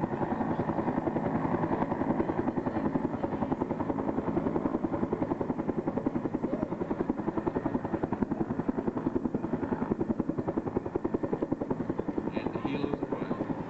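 Bell HH-1N Huey helicopter's two-blade main rotor beating in a rapid, even pulse while the helicopter hovers and flies through a simulated search-and-rescue demonstration.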